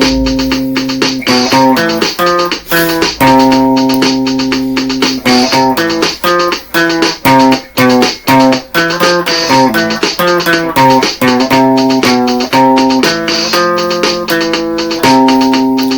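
Instrumental passage of a song: plucked guitar notes and held chords over a bass line, with no singing.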